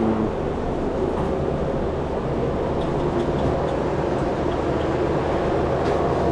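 Steady running hum of a commercial refrigeration condensing unit: compressor and condenser fan. A few faint light clicks come in the second half.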